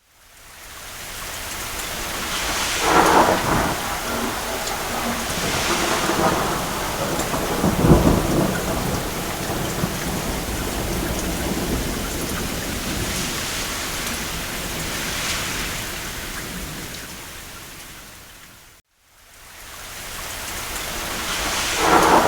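Steady rain on a cabin roof with rumbles of distant thunder, a deep roll about eight seconds in. The rain fades in from silence, fades out to silence shortly before the end, then fades back in under another thunder swell.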